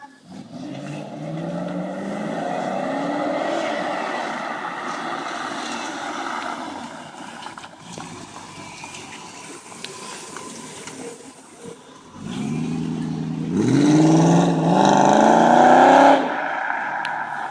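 BMW E39 535i's 3.5-litre V8 being revved: its note climbs over the first few seconds and eases off, then climbs again, louder, near the end before dropping away sharply.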